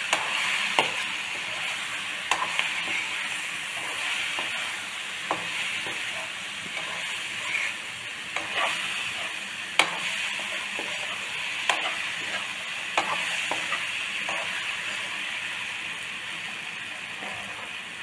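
Paneer masala frying in oil in a nonstick wok, a steady sizzle, while a metal spoon stirs it. The spoon clicks and scrapes against the pan at irregular moments.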